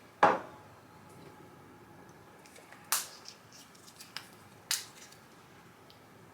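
Kitchen handling sounds: one sharp knock with a short ringing tail, then a few quicker sharp clicks and taps about three to five seconds in.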